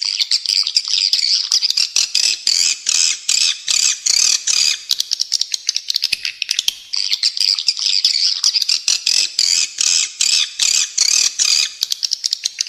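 Recorded bird song of a spiderhunter (pijantung) mixed with swiftlet (walet) calls: a dense, rapid run of rough, high chirps and chatter, with a brief break about seven seconds in.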